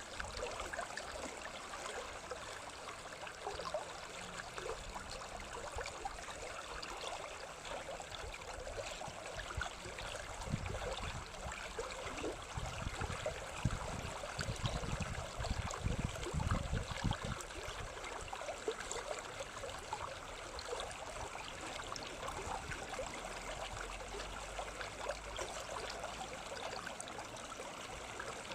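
Stream water flowing and trickling steadily, with a few low rumbles in the middle.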